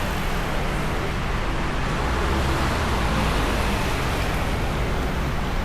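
Steady city street traffic noise: cars running past with a continuous low rumble.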